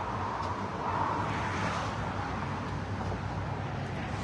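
A car engine idling steadily, under a wash of street traffic noise.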